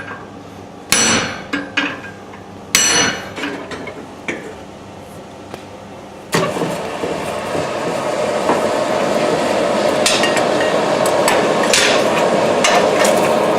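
Hammer blows ringing on hard stainless steel, a few sharp strikes in the first four seconds. About six seconds in, a steady rushing noise starts and keeps on.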